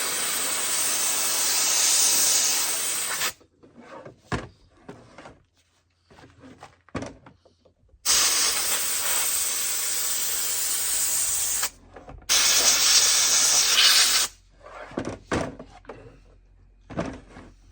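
Compressed air from an air compressor's blow nozzle hissing in three long blasts with pauses between, blowing packed sawdust and oil out of a chainsaw bar. A few light knocks fall in the pauses.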